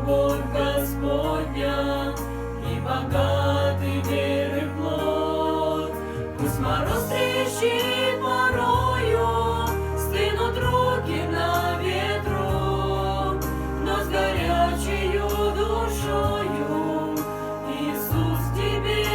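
A song: voices singing a slow melody over held bass notes that change every second or two.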